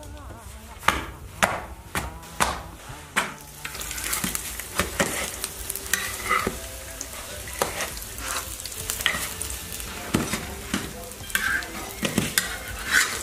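Corn-flour flatbreads frying in oil in a large iron wok, sizzling, with a metal spatula clacking and scraping against the wok as they are pressed and turned. The sizzle grows about four seconds in.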